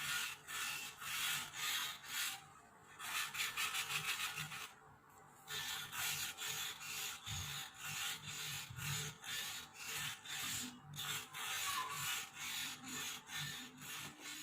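Repeated rasping strokes of abrasive hand work on a workpiece, about two a second, with two brief pauses in the first half.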